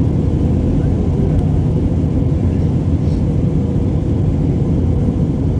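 Airplane noise: a steady, loud low rumble with no change in pitch or level.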